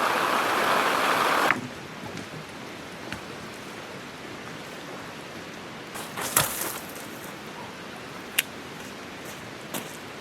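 Heavy rain coming down in a steady hiss, which drops abruptly to a quieter, steady rain about a second and a half in, with a few scattered light knocks.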